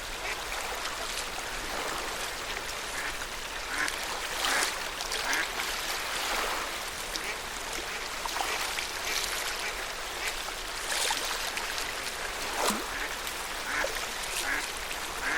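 Lake water lapping at the shore of Lake Yamanaka: a steady wash with irregular small splashes and slaps of wavelets, several a second.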